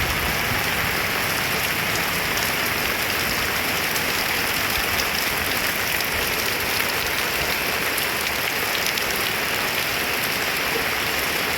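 Heavy rain pouring steadily, an even hiss of drops striking surfaces with fine scattered patter.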